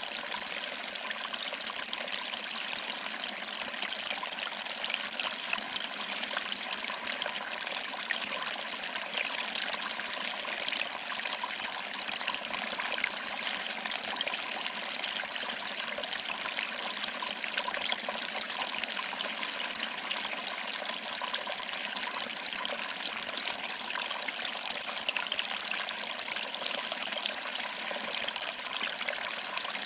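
Small waterfall trickling and splashing over rocks into a pool, a steady, even rush of water.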